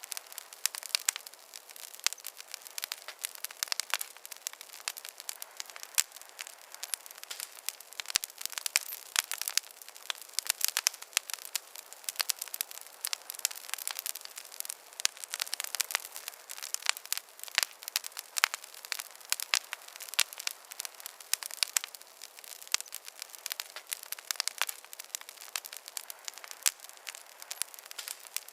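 Wood campfire crackling, a dense run of sharp pops and snaps over a soft steady hiss of burning.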